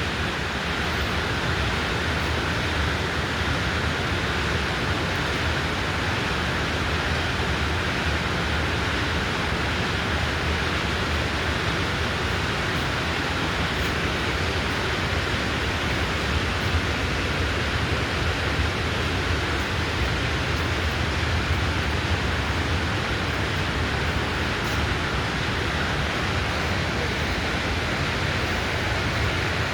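Steady, unbroken rushing noise with a low hum underneath, from a compressor header bypass line at an industrial compressor installation. It does not change.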